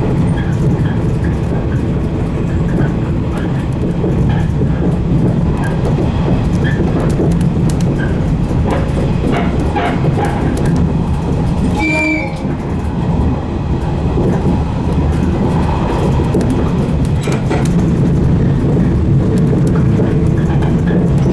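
115 series electric train running, heard from the front cab: a steady low rumble of motors and wheels on the rails, with scattered clicks over the rail joints. A brief high tone sounds about halfway through.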